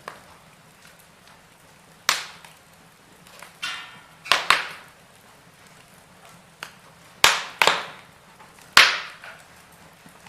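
Wood fire burning in a fireplace, with about eight sharp pops and cracks at irregular intervals over a faint steady background, the loudest in the second half.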